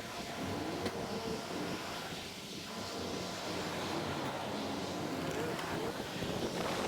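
Steady wind and road noise from riding a bicycle, with faint wavering pitched sounds in the background.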